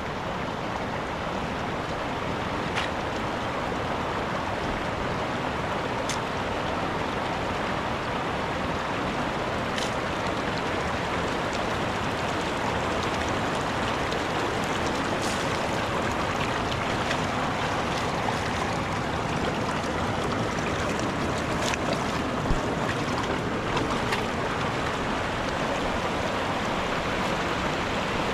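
Mountain river water rushing steadily over rocks, with a few faint clicks scattered through it.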